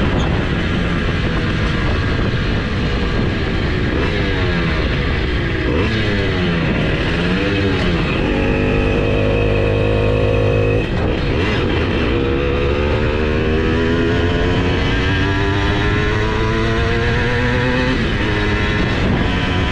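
Simson S51's single-cylinder two-stroke engine, bored to 85cc, running hard under load on a flat-out top-speed run. Its pitch swings up and down, holds high, drops sharply about 11 seconds in as a gear changes, then climbs steadily again.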